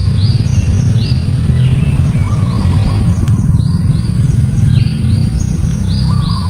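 Small birds chirping: repeated short, high notes that fall in pitch, some in quick runs, over a loud steady low rumble.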